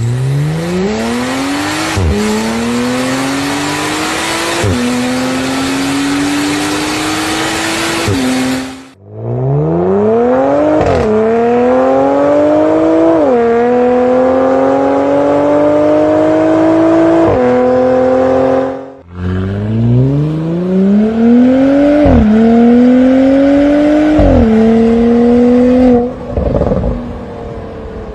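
Porsche engines accelerating hard through the gears in three separate runs. In each run the engine pitch climbs steadily, then drops sharply at every upshift, two or three times per run.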